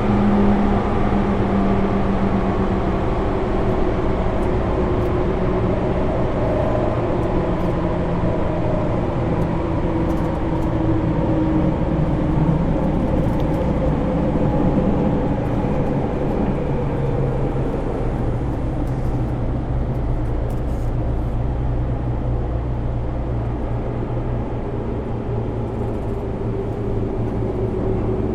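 Running sound inside a JR East 205 series electric train car with MT61 externally-fanned traction motors, travelling steadily between stations: a continuous rumble of wheels on rail with steady motor and gear tones over it.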